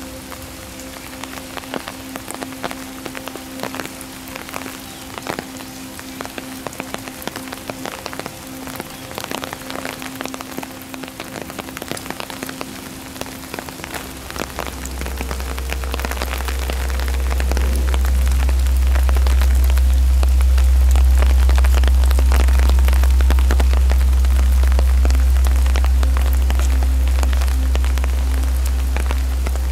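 Steady rain falling, with many separate drops ticking close by. About halfway through, a deep low rumble swells in and becomes the loudest sound.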